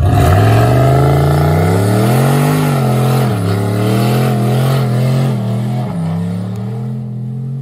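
Nissan VQ35DE "rev-up" V6 of a 2006 Infiniti G35 coupe running and being revved. The engine note climbs to a peak about two and a half seconds in, drops back, then rises again more lightly. The owners say this engine has rod knock.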